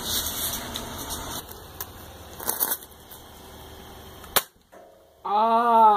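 A single sharp snap of a toy gun being fired, about four seconds in.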